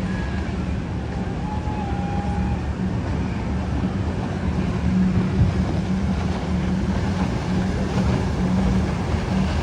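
Steady low drone of a large cruise ship's engines as it sails past, a constant rumble with a hum.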